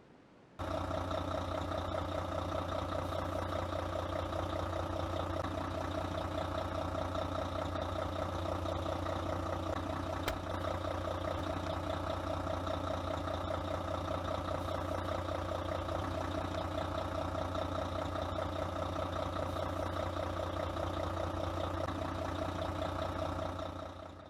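Steady truck engine idling sound with an even, fast pulse. It switches on abruptly about half a second in and fades out near the end.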